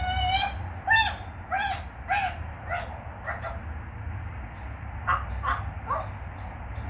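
African grey parrot calling in a quick run of short pitched squawks, about six in the first three seconds, then a few more later and a brief high whistle near the end.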